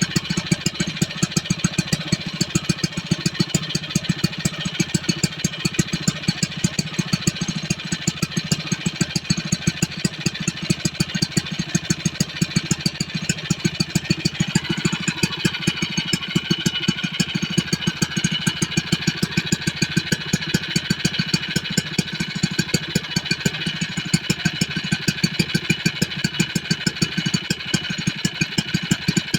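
Koshin SEV-25FG portable engine water pump running steadily at a constant speed, its small petrol engine firing in a fast, even rhythm. About halfway through, its sound changes as a new higher tone comes in over the engine.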